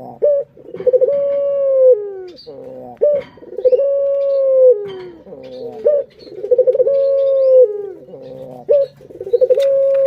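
A male puter dove (Barbary dove) cooing, repeating the same call four times about every three seconds. Each call is a few quick stuttering notes, then a long held coo that drops in pitch at its end, then a short final note.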